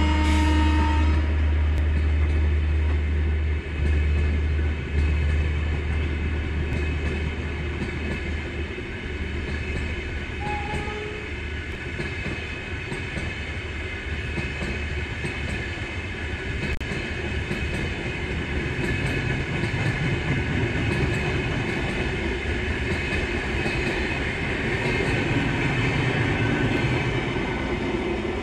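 Indian Railways passenger coaches rushing past at high speed: a steady rumble and rattle of wheels on rail with faint clickety-clack, swelling again toward the end. A horn blast cuts off about a second in.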